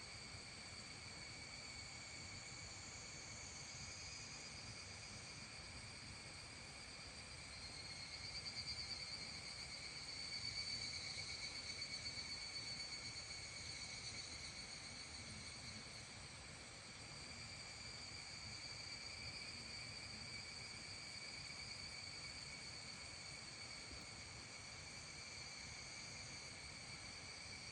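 A chorus of evening insects keeps up a steady, high-pitched shrill. It swells louder with a fast pulsing for several seconds around the middle, then settles back.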